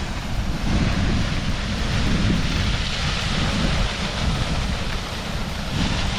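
Steady rushing water of a waterfall, with gusts of wind buffeting the microphone in the low end.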